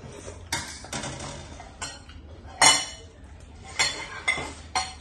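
Eating utensils clinking and scraping against a bowl of noodles, six sharp irregular knocks, the loudest a little past halfway.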